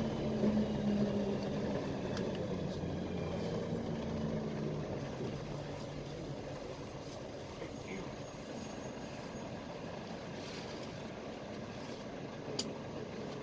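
Engine drone and road rumble inside a moving PAZ-320405-04 Vector Next bus. The engine's steady tone fades after about five seconds as the bus eases off, leaving tyre and body rumble. There is a sharp click near the end.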